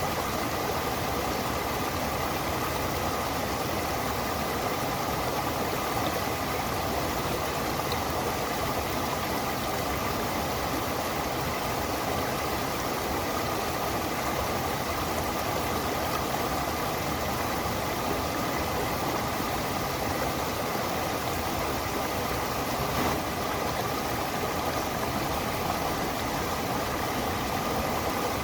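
Water of a stream rushing and splashing steadily, an even unbroken wash of noise.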